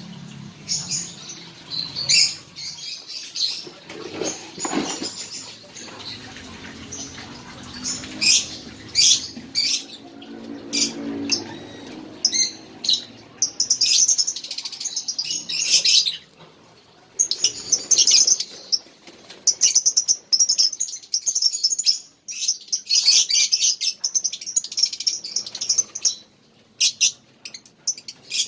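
A bird calling in short, high-pitched chirps, breaking into rapid chattering runs several times.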